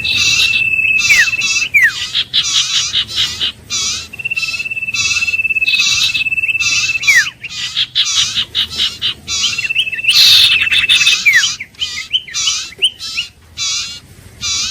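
Iora song: rapid, repeated chattering notes, three times overlaid by a long, steady whistle held one to two seconds that ends in a quick falling note.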